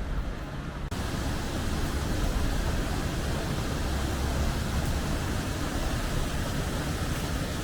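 Steady outdoor rushing noise, heaviest at the low end, with an abrupt change about a second in.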